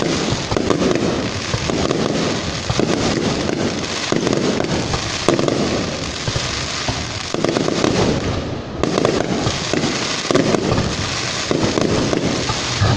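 Fireworks display: gold glitter shells bursting overhead one after another, making a dense, continuous crackling with heavier bursts every second or so.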